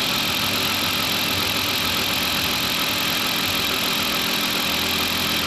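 Freshly rebuilt car engine idling steadily on its first run after the rebuild, running without its drive belts.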